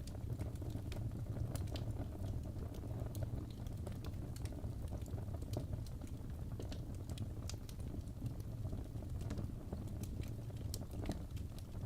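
Fireplace crackling: irregular sharp pops and crackles over a steady low rumble.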